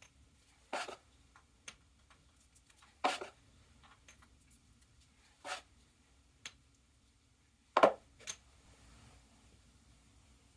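A drywall patch and patching compound being worked by hand: about five short scrapes or knocks, roughly two seconds apart, the loudest near the end, with quiet room tone between.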